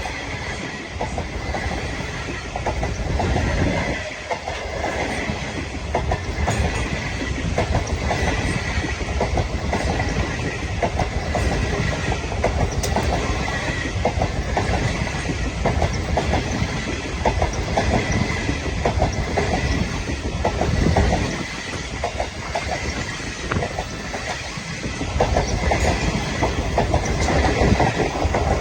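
The Ghan's passenger carriages rolling past at speed, their wheels clicking steadily over rail joints above a continuous low rumble. A faint, steady high whine sits over the clatter.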